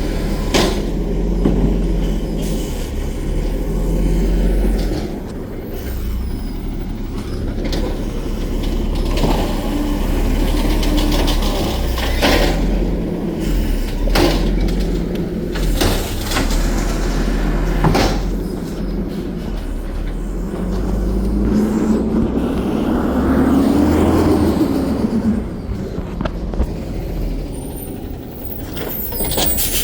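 Garbage truck's engine running steadily, with sharp clanks several times and a rising then falling whine lasting a few seconds about two-thirds of the way in.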